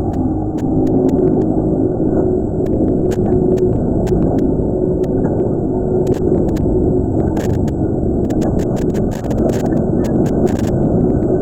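Cave ambience: a steady, loud low rumbling noise, with faint sharp clicks scattered through it.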